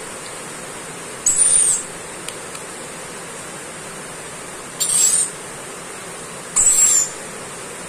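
Lory giving three harsh, high-pitched screeches, each about half a second long and a couple of seconds apart, over a steady high-pitched whine in the background.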